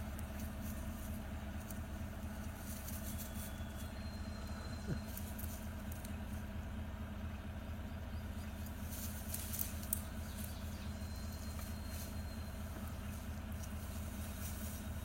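Steady low engine hum, like a vehicle idling, with faint scattered clicks and crackles.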